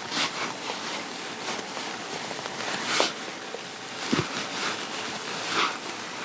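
Rustling and handling noises: soft swishes, with a dull knock about four seconds in.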